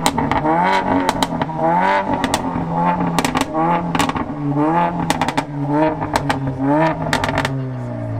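Mercedes-AMG A45's turbocharged four-cylinder engine blipped repeatedly, about once a second, through a large-bore aftermarket exhaust, with sharp pops and crackles between the revs. It is really loud.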